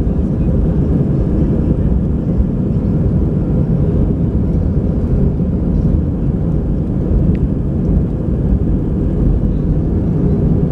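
Inside the cabin of an Airbus A320-family jet airliner: its jet engines at high thrust for takeoff, a loud steady low rumble with no clear change in pitch.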